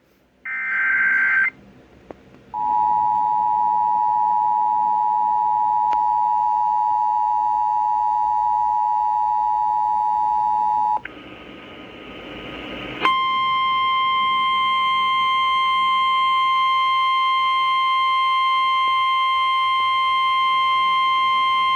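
Emergency Alert System activation on AM radio. It opens with a brief buzzy burst of SAME data-header tones. Then comes the two-tone EAS attention signal, held steady for about eight seconds. After a couple of seconds of hiss, the single steady NOAA Weather Radio warning alarm tone sounds for about nine seconds, announcing a severe thunderstorm warning.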